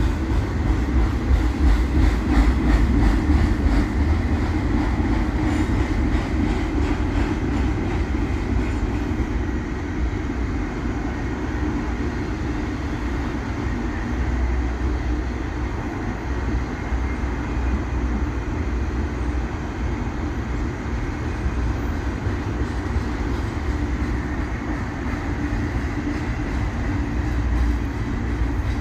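Freight train cars rolling past on the rails: a steady rumble of wheels and cars, unbroken throughout.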